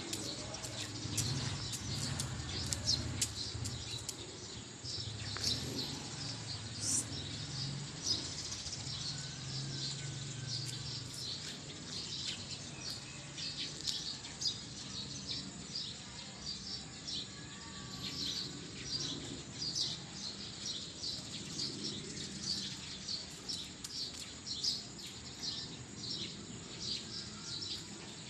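Birds chirping: many short high-pitched chirps, over a low background rumble.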